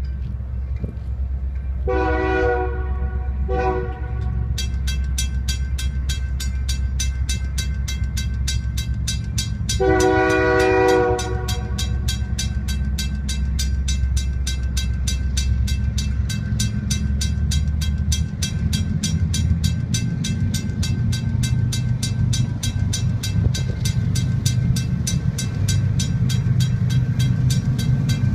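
A train's air horn sounds three times over a low diesel rumble: a blast, a short toot, and a longer blast about ten seconds in. From about five seconds in, a steady rapid clicking runs under the rumble.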